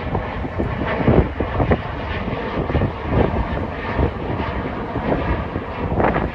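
Departing jet airliner's engines at takeoff power, a steady loud rushing noise, with wind gusting on the microphone.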